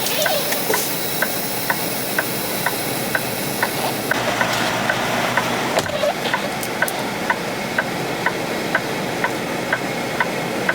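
Truck diesel engine idling, with a short electronic beep repeating about twice a second over it. A hiss of air runs over the first four seconds, then stops.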